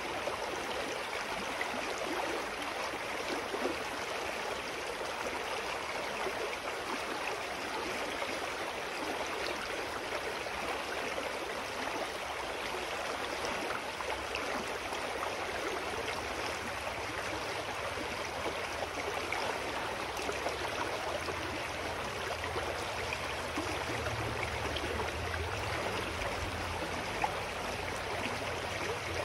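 Clear mountain stream flowing steadily, an even rush of water. A low rumble joins in about halfway and grows near the end.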